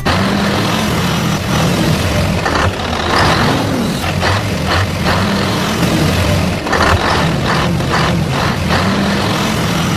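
Heavy truck engine running steadily, with a series of short hissing bursts over it.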